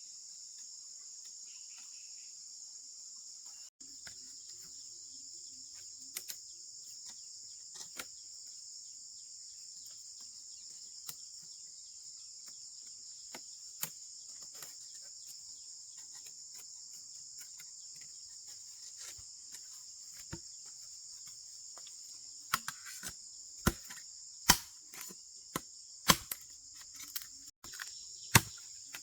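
Steady, shrill chorus of insects, crickets or similar, sounding throughout. Scattered faint clicks, then a run of sharp, louder knocks in the last several seconds, irregularly spaced.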